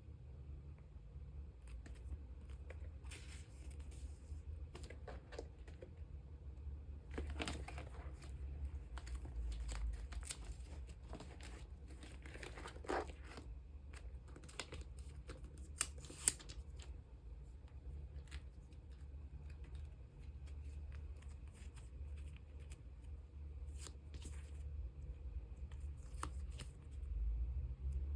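Plastic sleeves rustling and crinkling as photocards are handled and slid into them, with scattered small clicks and taps over a steady low hum.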